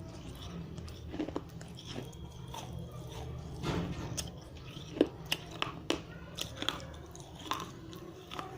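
Close-up crunching of dry, fired red clay diya lamps: irregular sharp bites and crackling chews as the brittle clay breaks between the teeth, with the loudest snap about five seconds in.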